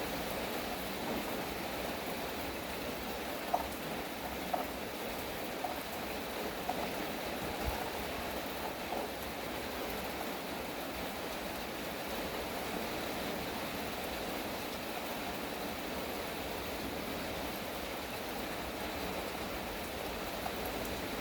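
Steady rainfall, a constant even hiss of rain, with a few louder single drops ticking onto a surface in the first half.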